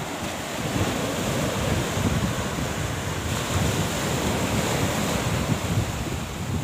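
Wind buffeting the microphone in uneven gusts over a steady rushing noise; no engine is running.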